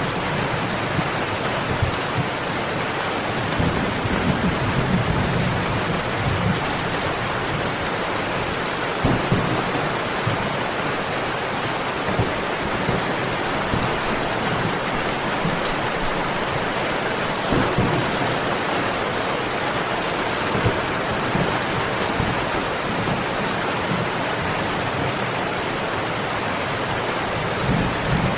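Steady rain with occasional low thunder rumbles and a few sharp crackles and pops from a wood fire.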